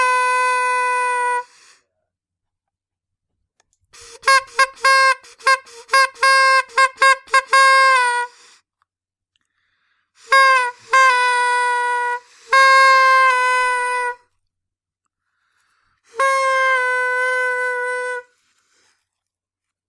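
Horn honking on one steady note. A blast stops about a second and a half in, followed by a quick run of about nine short honks, then three more honks and a final long blast.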